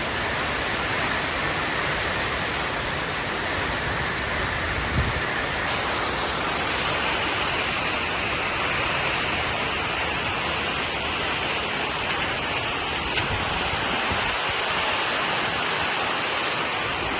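Heavy rain falling steadily, an even hiss, with a couple of brief faint taps of drops.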